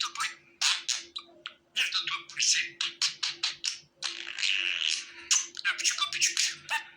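Budgerigars chattering: a fast, uneven string of short high chirps and clicks with a few brief warbled phrases.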